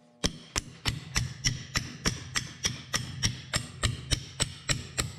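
Hammer striking steadily, about three blows a second, driving out a broken lacing pin from a baler belt splice.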